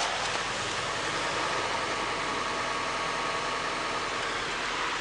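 Mitsubishi CJ Lancer's 2.0-litre 4B11 four-cylinder engine idling steadily, under an even hiss.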